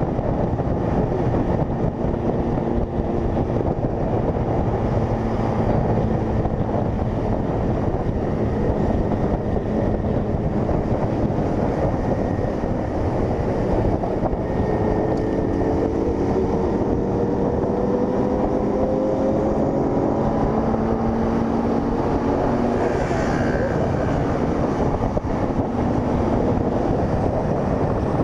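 Honda CG 160 Fan single-cylinder motorcycle engine running at road speed under heavy wind rush on the microphone. Its note climbs slowly about halfway through as the bike accelerates, then holds steady.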